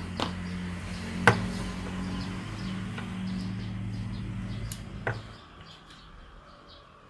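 A few sharp clicks and knocks of small gun gearbox parts being handled on a workbench, the loudest about a second in, over a steady low hum that stops about five seconds in. Birds chirp faintly in the background.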